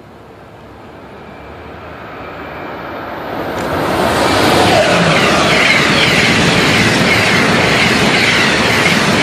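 Amtrak train passing at high speed, growing louder over the first four seconds as it approaches, then a loud, steady rush of wheels on rail and wind as it goes by.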